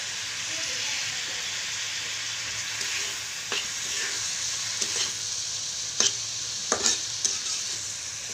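Boneless chicken breast pieces and sliced onion sizzling in hot oil in a kadai while a spatula stirs them, with a steady hiss and half a dozen sharp knocks of the spatula against the pan in the second half.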